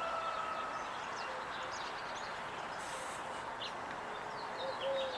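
Small birds chirping now and then over a steady outdoor background hiss, with a couple of short, low held calls near the end.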